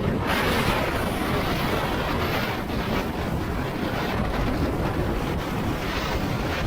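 Wind rushing over the microphone on a moving motorcycle, with the engine running underneath as a steady low noise.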